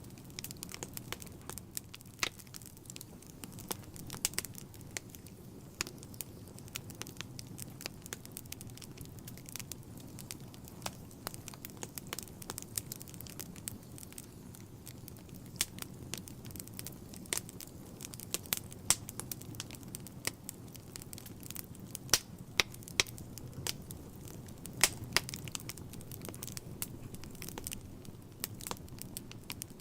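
Wood fire burning in a fireplace: irregular sharp crackles and pops over a steady low rumble of flames, with the pops denser and louder in the second half.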